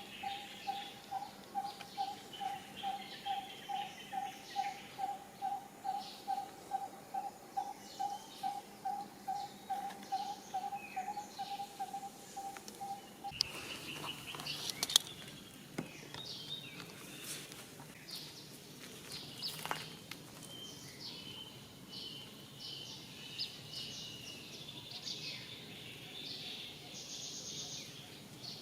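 Outdoor bird sounds: one bird repeats a single low, even note about twice a second over scattered higher chirps. About halfway through it stops and the background changes abruptly to chirps and a few sharp clicks.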